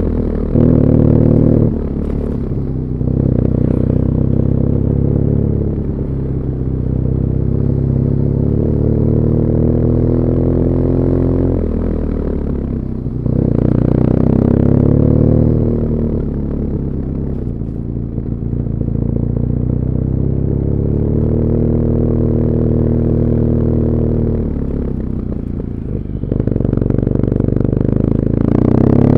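BMW R nineT Urban GS's air/oil-cooled boxer twin, stock muffler, heard from the rider's seat while riding in city traffic. Its pitch rises as it accelerates through the gears and falls as it eases off, several times over, with a louder pull about halfway through and again near the end.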